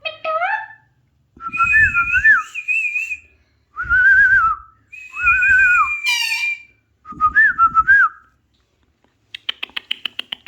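Alexandrine parakeet whistling: about five separate warbling phrases that bend up and down in pitch. Near the end comes a fast chatter of about ten clicks a second.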